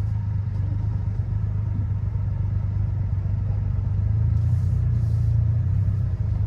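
Triumph Rocket 3 R's 2,458 cc inline three-cylinder engine running steadily while the bike is ridden: a deep, continuous low rumble that swells a little around the middle.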